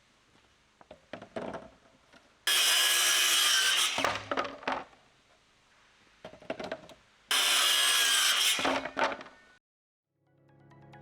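Power saw cutting plywood in two short cuts of about a second each, with knocks and clatter of handling the wood around them. Music fades in near the end.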